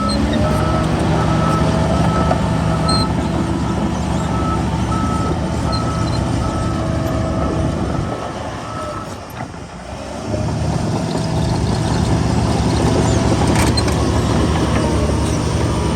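Heavy earthmoving machine's diesel engine running with its reversing alarm beeping, about three beeps every two seconds. The beeping stops about halfway through, the engine eases off for a couple of seconds, then picks up again.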